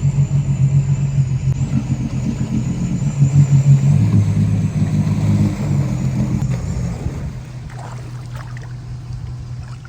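Engine running and revving, its pitch shifting a few times, then fading away about seven seconds in.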